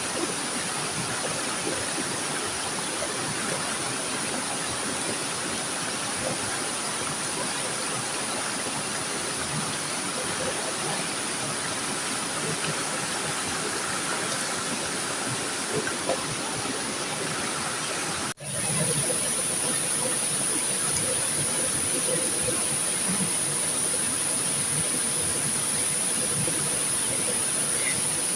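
Steady rushing of river water, with a thin high-pitched hiss held above it. About 18 seconds in it cuts out for an instant and comes back a little louder.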